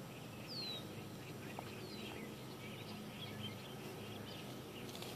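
Faint birdsong: scattered short chirps, with a clear falling whistle about half a second in and a weaker one about two seconds in. Under it runs a steady low outdoor background noise.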